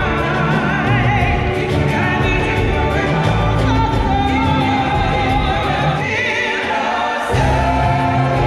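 Music with a choir singing over a steady low beat, with long held, wavering vocal notes.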